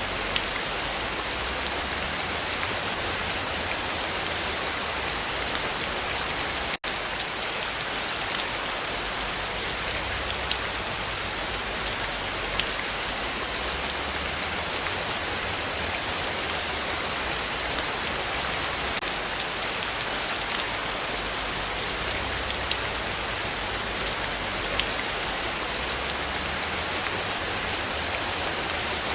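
Heavy rain falling steadily, a dense hiss with many individual drops ticking on surfaces. It cuts out for a split second about a quarter of the way through.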